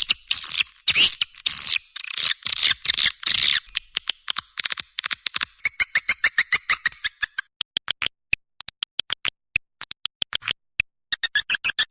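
Swiftlet calls, as used in a recorded lure track: fast, high chirping twitters that thin out to scattered sharp clicks after about seven seconds, with the chirping starting up again near the end.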